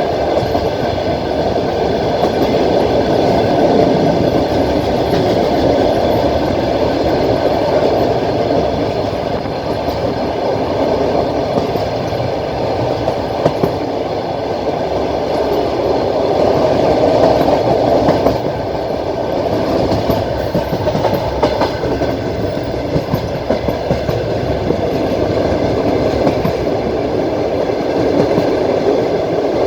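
Passenger train rolling along the track, with steady rumbling wheel-on-rail noise and occasional clicks from the wheels.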